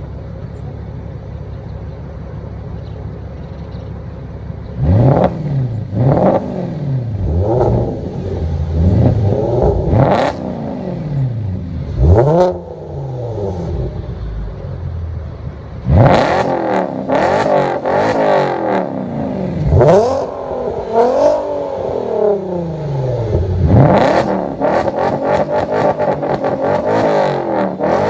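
Car engines revved through loud aftermarket exhausts: a B7 Audi S4's 4.2 V8 with a straight-pipe exhaust and a VW R32's VR6 with a Magnaflow cat-back. An engine idles steadily for about five seconds, then is blipped repeatedly, the pitch rising and falling with each rev, with sharp pops between; about halfway through the revving changes character and carries on in repeated blips.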